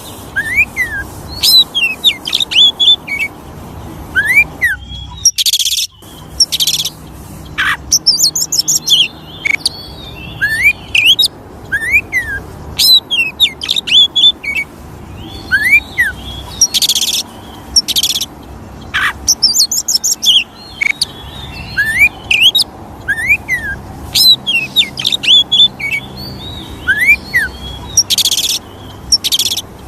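Oriental magpie-robin (kacer) singing continuously: a varied song of sharp swooping whistles mixed with fast high trills and short harsh bursts, phrase after phrase.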